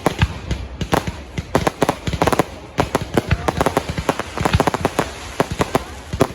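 Fireworks going off in a rapid string of sharp bangs and cracks, several a second.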